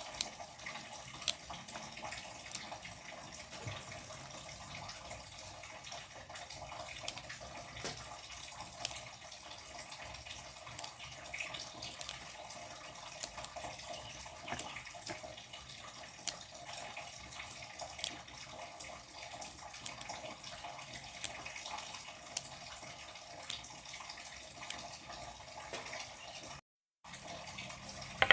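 Water running steadily from a kitchen tap, with small clicks and knocks scattered through it; the sound drops out for a moment near the end.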